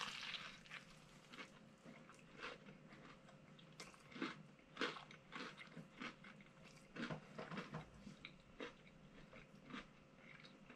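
A person biting into and chewing a hand-breaded fried chicken sandwich: a bite at the start, then faint, irregular crunches of the super-crunchy breading as it is chewed.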